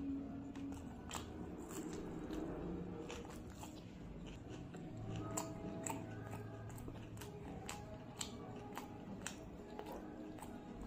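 Close-miked chewing and mouth sounds of a person eating rice by hand: soft chewing with irregular wet clicks and smacks, one or two a second.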